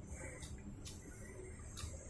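Mouth sounds of someone chewing a meal of rice: a few sharp, wet lip-smacking clicks at uneven intervals over a low background rumble.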